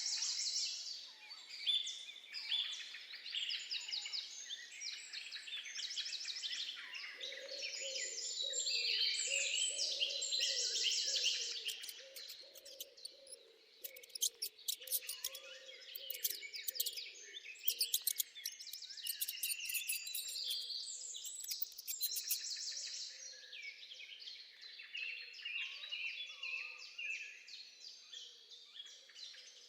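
Many overlapping high-pitched chirps and peeps, bird-like, going on without a break. A lower, softer warbling joins in for a few seconds about a quarter of the way in.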